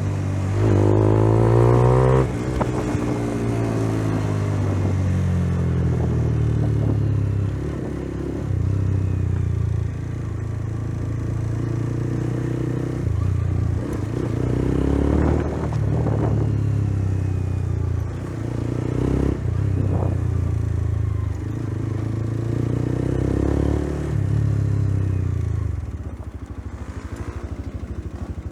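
A 125 cc motorcycle engine under way, its pitch rising and falling again and again as it accelerates and shifts gears. About 26 seconds in it drops to a quieter, even idle.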